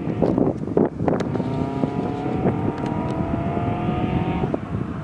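Flat-four boxer engine of a BRZ/FR-S/86 coupe with Tomei unequal-length headers accelerating hard some way off, its note climbing steadily for about three seconds and then breaking off near the end, as at an upshift. Wind buffets the microphone at the start.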